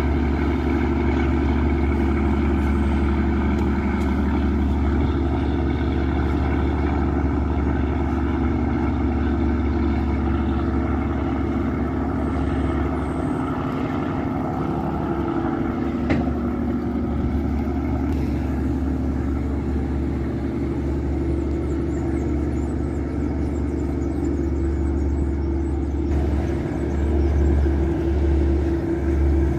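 A boat's Yanmar marine diesel engine, rated 829 hp, running steadily: a continuous low drone that swells briefly a few times near the end.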